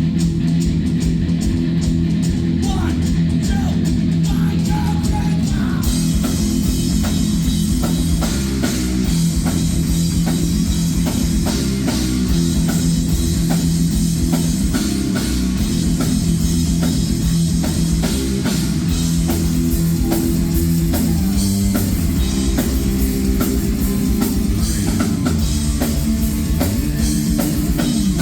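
Heavy metal band playing live: distorted electric guitar and bass over a drum kit, with the cymbals crashing in about six seconds in and staying for the rest.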